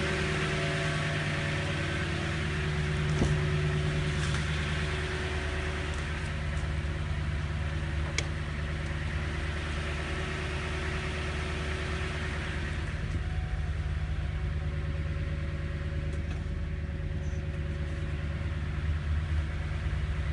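Toyota Sequoia's V8 engine idling steadily, with two short clicks, about three and eight seconds in.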